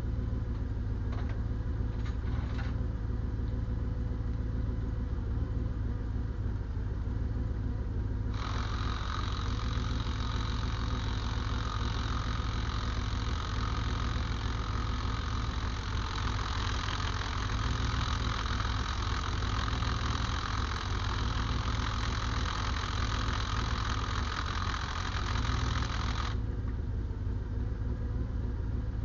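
Diesel engine idling steadily, with a loud hiss that starts suddenly about a third of the way in and cuts off suddenly near the end.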